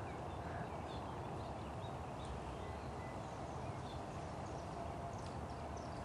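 Faint, scattered short chirps of small birds over a steady outdoor background hum.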